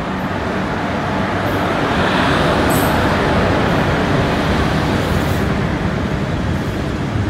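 A freight train hauled by two WAG-7 electric locomotives passing at close range. The rumble of the locomotives and wheels on rails with a low steady hum builds over the first two seconds, then stays loud as the locomotives go by.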